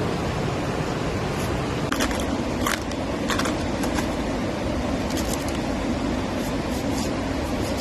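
Steady rushing noise of rain and running water, with a few sharp light clicks and scrapes between about two and four seconds in.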